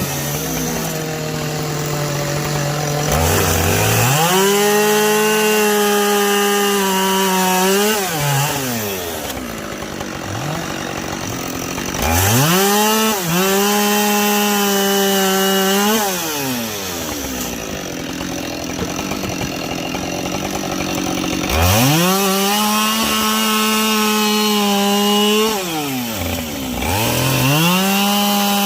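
Two-stroke chainsaw bucking logs: the engine revs up to full throttle for each cut, holds a high steady pitch for a few seconds, then drops back, about four times.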